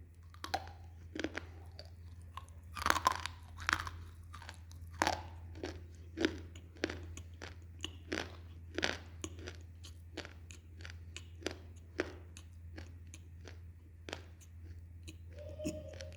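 A person crunching and chewing pieces of baked clay, with a sharp crunch about every half second or so, over a steady low hum.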